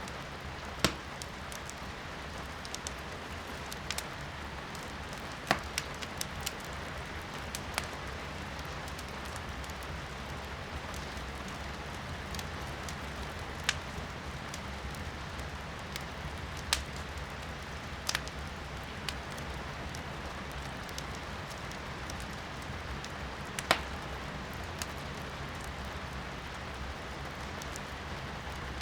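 Wood fire crackling in a fireplace, with sharp pops scattered irregularly, the loudest about a second in, near five and a half seconds and near the end, over a steady hiss of rain heard from indoors.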